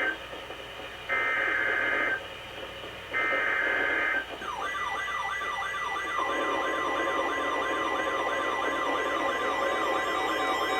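Emergency alert broadcast tones: two bursts of the digital SAME header, each a harsh data screech about a second long, then from about four and a half seconds in a rapidly repeating siren-like wail, joined about six seconds in by a steady high alert tone that holds on.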